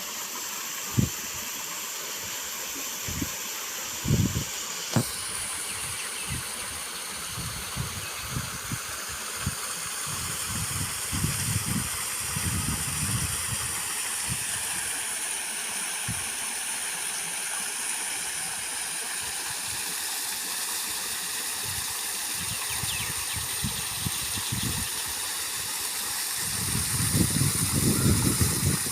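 Steady rush of flowing water, with irregular low buffeting from wind on the microphone that grows heavier near the end, and a single sharp click about five seconds in.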